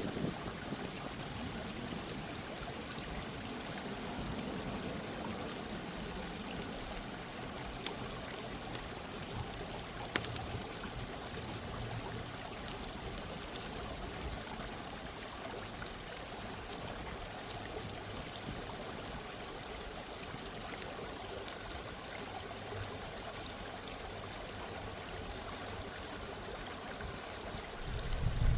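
Steady rush of running stream water, with scattered faint crackles and pops from a campfire. A low rumble swells in right at the end.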